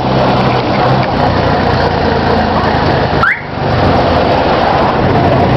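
Moto taxi's motorcycle engine running steadily as it rides along the street, with road noise. The level dips briefly about three seconds in.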